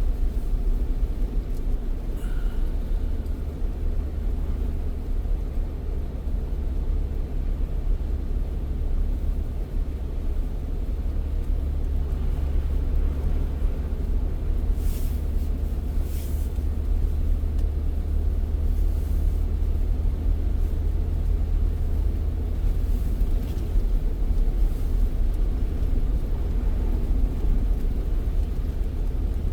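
A car driving at steady speed, its engine and tyre noise making a continuous low rumble.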